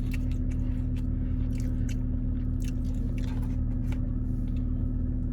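Close-miked chewing of a sauce-dipped grilled chicken club sandwich: wet, irregular mouth clicks and smacks, over a steady low hum.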